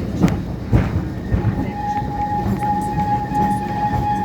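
Great Orme Tramway car running on its rails, rumbling with irregular knocks. About a second and a half in, a steady high squeal starts and holds.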